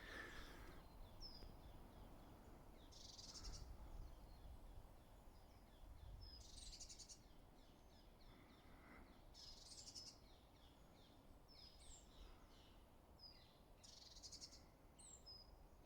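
Faint woodland birdsong: short high chirps and a repeated trilled phrase about every three to four seconds, over a faint low background hum.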